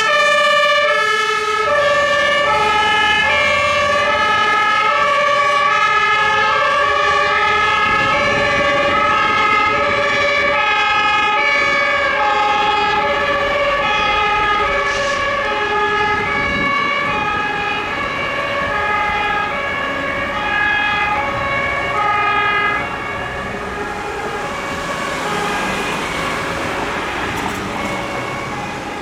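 Several German two-tone emergency-vehicle sirens (Martinshorn) sounding together, each switching back and forth between two pitches out of step with the others, over the noise of the vehicles' engines. The sirens grow quieter over the last few seconds.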